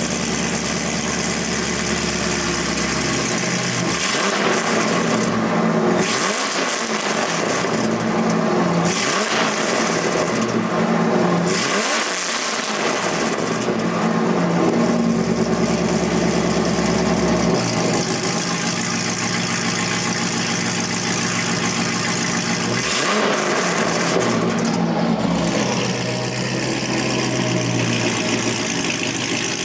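Chevrolet Corvette C5's V8 exhaust idling, with several quick revs that rise and fall back to idle in the first half and one more about two-thirds of the way through.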